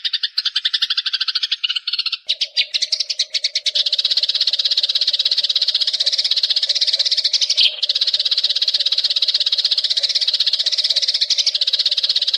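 Sparrows chattering in a rapid, unbroken string of chirps, as on a song-training (masteran) recording. About two seconds in the chatter turns denser and higher, with a steady low tone underneath.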